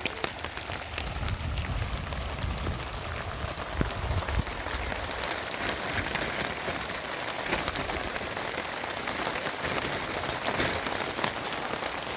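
Heavy rain falling steadily, with many sharp taps of drops close by.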